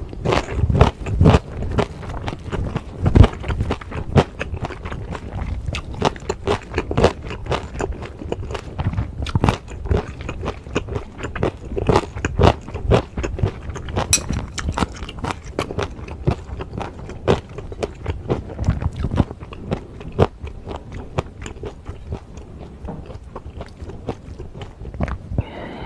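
Close-miked chewing of a mouthful of food, with many sharp, wet and crunchy mouth clicks. The clicks are loudest and densest in the first few seconds and thin out toward the end.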